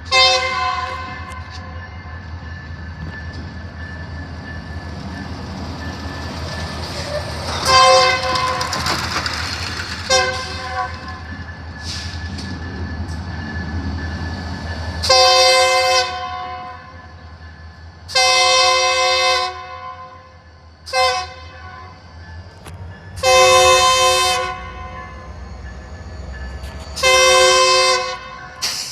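Locomotive horn blown repeatedly over the low rumble of the train's engine. There are about eight blasts, the later ones long and loud with a short one between.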